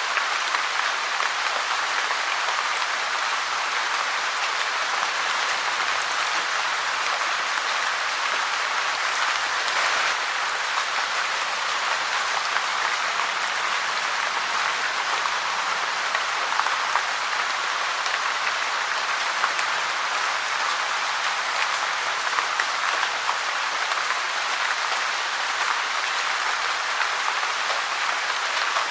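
Steady rain falling in a dense, even patter, with brief sharper drop hits scattered through it.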